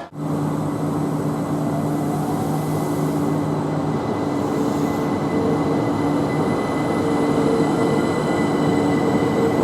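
A train running through the station: a steady rumble with a droning hum of several held pitches that drop out and come back partway through, growing slightly louder toward the end.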